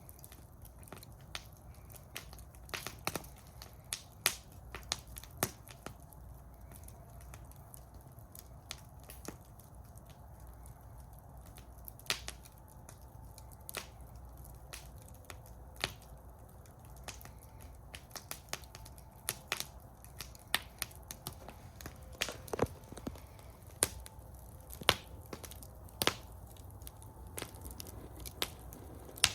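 Wood fire burning in a metal fire bowl, crackling with irregular sharp pops and snaps over a low steady rumble of the flames.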